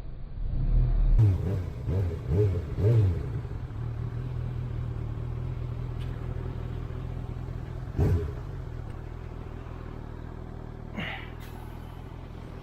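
Motorcycle engine revving up and down several times, then running at a steady pitch, with a short surge about eight seconds in.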